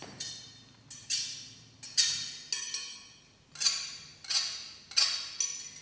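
A small metal object struck again and again in an uneven rhythm, about ten hits, each giving a bright, high metallic ring that dies away quickly.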